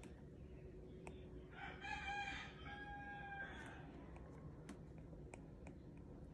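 A bird's crowing call lasting about two seconds, starting about a second and a half in, with a few light taps of an Apple Pencil on an iPad screen before and after it.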